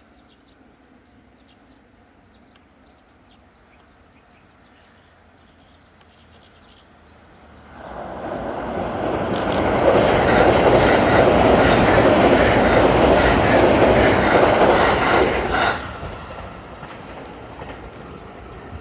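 A 285-series Sunrise Izumo sleeper express electric train passes a level crossing. Its noise builds up about eight seconds in and stays loud for about six seconds, with the wheels clattering over the track. It drops off suddenly as the last car goes by, leaving a fainter fading rumble.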